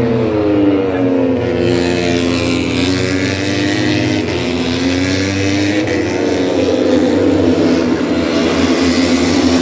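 Racing motorcycle engines running, their pitch slowly falling and rising again over several seconds, over a steady low drone.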